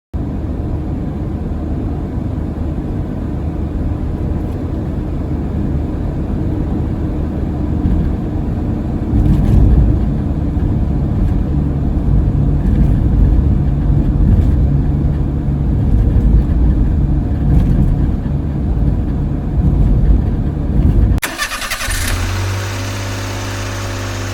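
Small vehicle engine running with a steady low rumble and road noise, as heard while driving. About 21 seconds in it cuts off suddenly and music begins.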